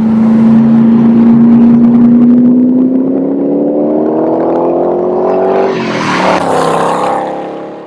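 A car engine running at a steady note, then accelerating, its pitch rising for a few seconds. About six seconds in the note breaks off with a rush of hiss, and the sound fades near the end.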